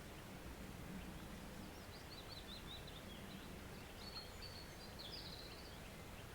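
Faint steady rush of a woodland stream, with a small bird singing a quick run of high notes from about two seconds in to near the end.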